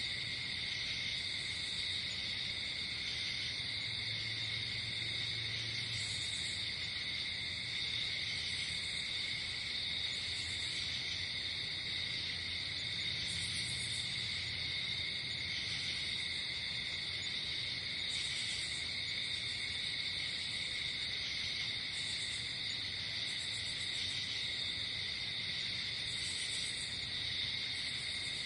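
A night insect chorus of crickets trilling steadily at a couple of shrill pitches. Short, higher buzzy chirps from another insect recur every two or three seconds over it.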